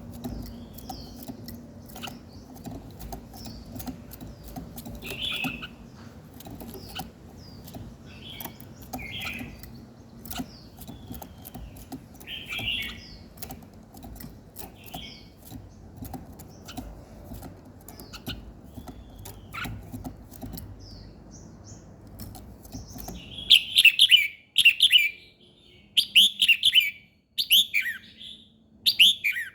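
Small songbird chirping in short, repeated calls, with scattered small clicks over a low steady background noise. About three-quarters of the way through the background drops away and the chirps become louder and come in quick runs.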